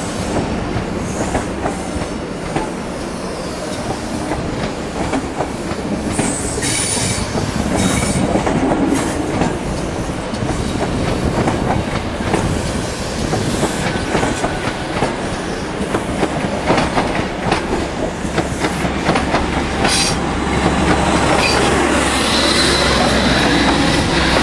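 An InterCity 125 (Class 43 HST) train's Mark 3 coaches rolling past at low speed, wheels clicking over rail joints and squealing now and then on the curved track. Over the last few seconds a louder low rumble builds as the rear diesel power car draws level.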